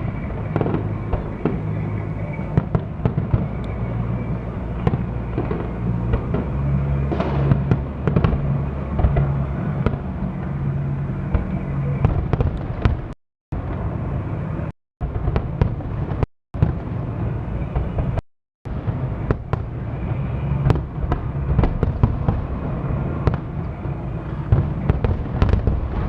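Fireworks display: a dense, continuous run of bangs and crackles from aerial shells. Around the middle the sound cuts out completely for a moment four times.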